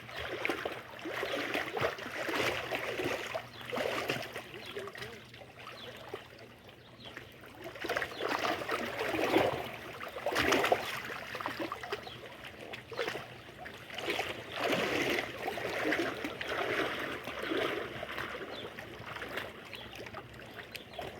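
Water lapping and splashing in uneven swells, rising and falling every second or two.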